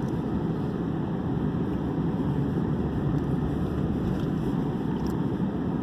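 Steady engine and road noise inside the cabin of a moving vehicle.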